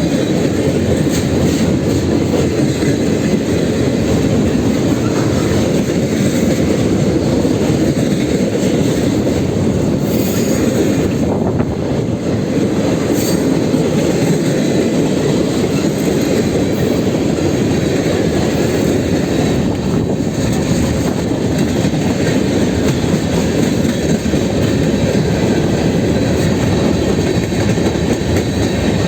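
Train rolling past, its steel wheels running steadily and loudly on the rails.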